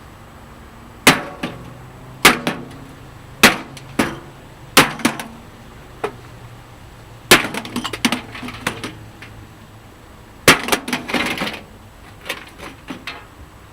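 A splitting maul smashing into a scrap microwave's sheet-metal case. The heavy blows come about once a second at first, then two more are spaced out, and each of those last two sets off a second or so of rattling clatter as the case breaks open.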